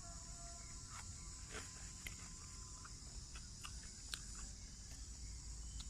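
Backyard insect chorus of crickets or cicadas, a steady high buzz, with scattered short clicks and chirps over it.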